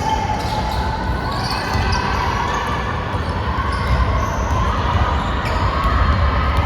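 Basketball game sound in a gym: a ball bouncing on the hardwood court, with echoing hall ambience and faint voices of players and onlookers.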